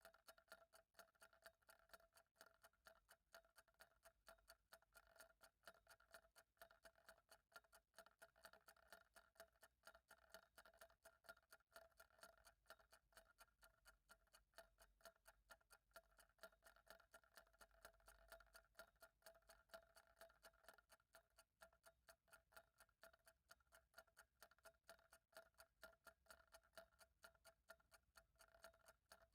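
Faint ticking of a clock at a steady, even rate, with a faint steady hum underneath.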